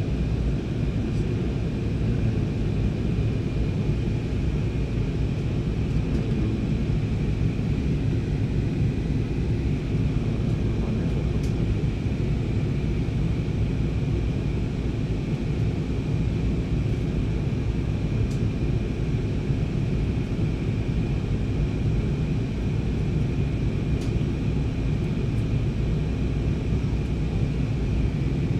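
Steady drone of engines and airflow heard inside a passenger airliner's cabin in flight, strongest at the low end, with a steady high tone running above it.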